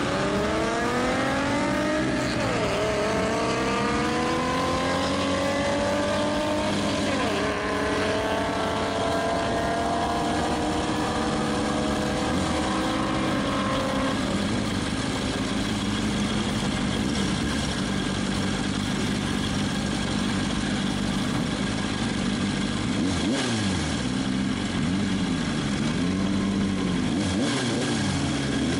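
2006 Kawasaki Ninja ZX-6R 636's inline-four engine pulling away, its pitch climbing, with two upshifts a few seconds apart. It then runs steadily at low revs, and near the end it is revved up and down in several short blips.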